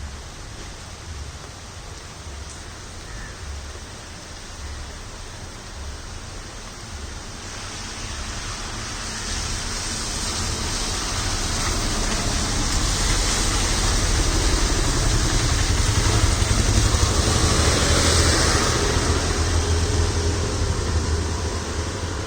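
Steady rain, with a vehicle coming along a wet road: the hiss of its tyres on the wet surface and a low engine rumble swell slowly, are loudest in the second half, then fade.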